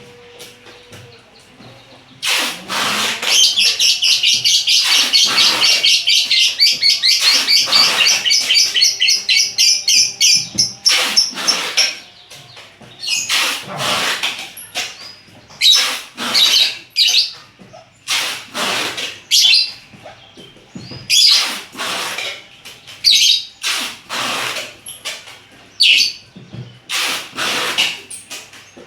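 Pet lovebirds calling: a fast, unbroken chatter of high chirps for about ten seconds, then loud, shrill single calls spaced about a second apart.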